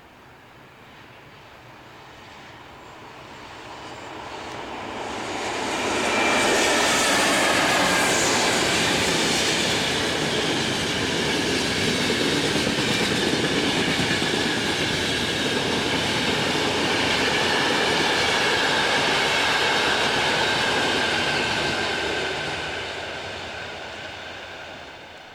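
A train passing by on the line: it approaches and grows loud about six seconds in, runs past for some fifteen seconds with wheel and rail noise and a faint steady whine, then fades away near the end.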